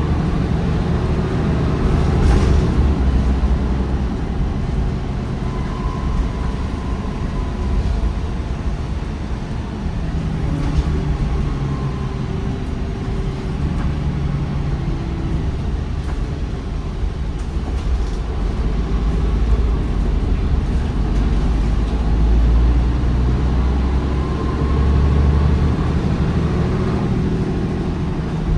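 MAN 19.360 bus with a MAN D1556LOH diesel and ZF Ecolife six-speed automatic gearbox, driving: a continuous engine rumble that swells and eases with the load. A whine rises and falls with road speed, and twice a high whine climbs and then drops off sharply, once near the start and once near the end.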